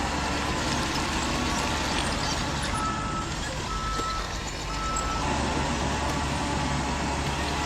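Radio-controlled truck running steadily. It sounds three reversing beeps, about a second apart, in the middle.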